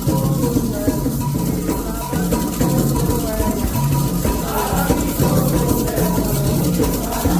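Candomblé ritual music for Oxalá: drums play a steady repeating beat under a constantly rattling shaker, with voices singing a wavering chant line over them.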